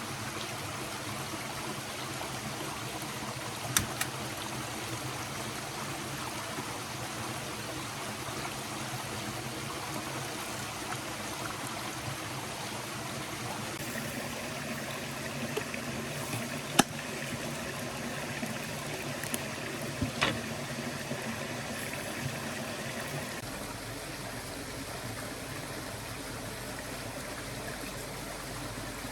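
Stream flowing steadily, with a few sharp clicks over it, the loudest about halfway through.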